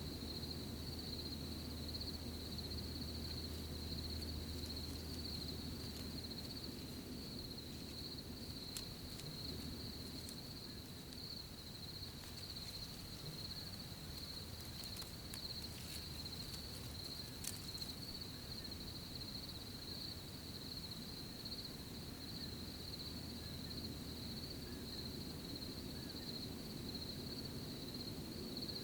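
Crickets trilling in a continuous, steady chorus over a low rumble. A few faint clicks come through around the middle.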